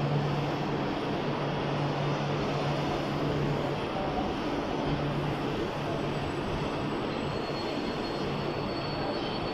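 Steady low hum with a rushing noise from a double-decker passenger train's equipment; a faint high whine joins about seven seconds in.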